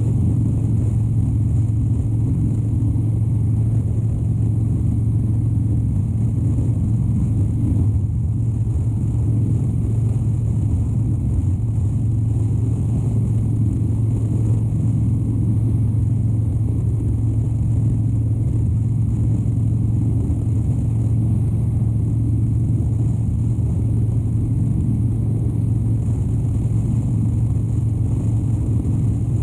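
2013 Harley-Davidson Dyna Wide Glide's 103-cubic-inch V-twin running steadily while the motorcycle rides along at an even speed, with no change in engine note.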